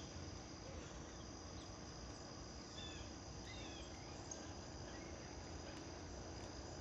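Steady high-pitched insect trilling, with a few faint, short bird chirps now and then.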